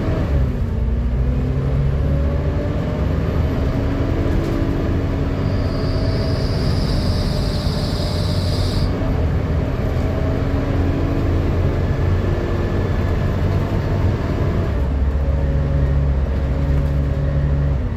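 Volvo B7TL double-decker bus's six-cylinder diesel running on the move: a steady low rumble with drivetrain whine tones that slowly rise and fall. A high whine joins about five seconds in and cuts off suddenly near nine seconds.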